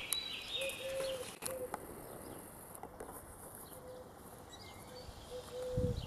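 Outdoor ambience with birds calling: a short, low call repeated in little groups, with higher chirps over it in the first second. A low thump comes just before the end.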